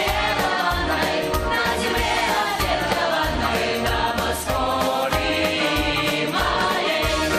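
Pop song with a group of voices singing together over a steady bass beat.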